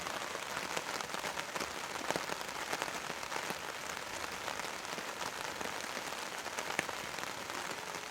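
Steady rain falling: a constant hiss with many small, irregular drop ticks.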